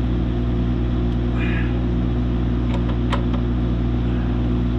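Excavator's diesel engine idling steadily, with a couple of sharp clicks about three seconds in.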